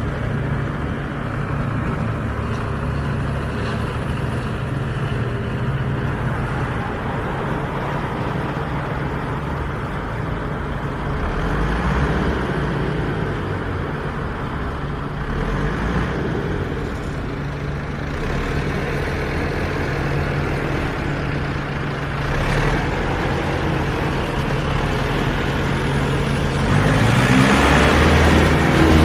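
Tractor diesel engine running steadily with a constant low hum. Near the end the engine note rises and grows louder.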